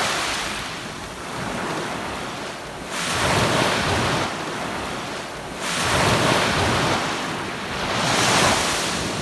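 Waves breaking and washing up on a sandy beach, each surge swelling and fading, with a new one every two to three seconds.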